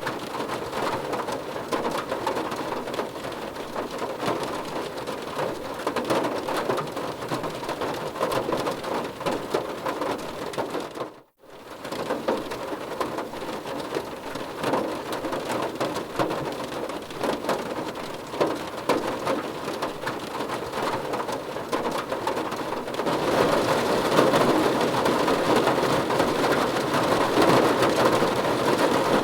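Rain falling on a car's roof and windows, heard from inside the car: a dense, steady patter. It cuts out briefly about eleven seconds in, and it gets louder about three-quarters of the way through.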